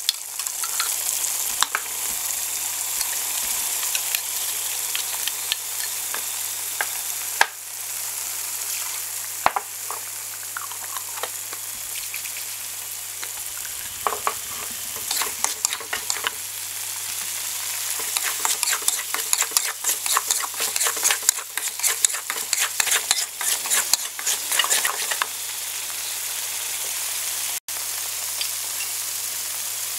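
Ground spice paste sizzling in hot oil in an aluminium wok, with a steady frying hiss. A metal spatula stirs and scrapes against the wok, and the scraping clatter is busiest through the middle and second half.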